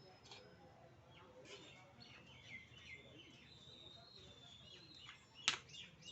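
Faint bird chirps and short whistled calls, with one sharp click about five and a half seconds in.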